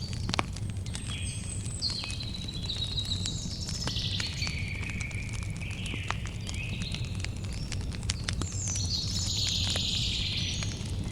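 Campfire crackling with sharp pops scattered throughout, over a low steady rumble, while a songbird sings a continuous string of varied phrases.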